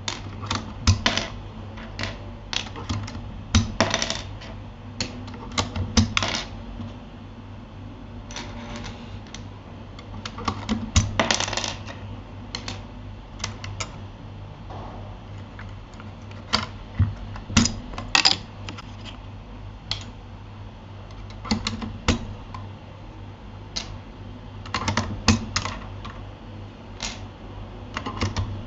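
Keys of a Keychron K8 mechanical keyboard being typed on in irregular bursts of short clicks, with pauses between runs. A steady low hum runs underneath.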